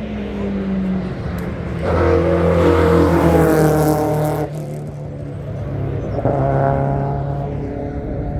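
Race car engines at a hillclimb: a steady idling engine throughout, a car accelerating hard and loud from about two seconds in until about four and a half seconds in, then an engine revving up again near six seconds.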